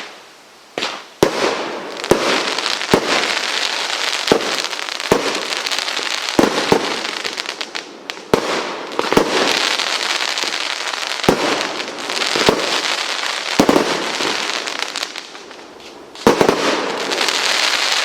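Consumer firework barrage firing: sharp bangs every second or so over continuous crackling. There is a short lull about fifteen seconds in before the bangs and crackling pick up again.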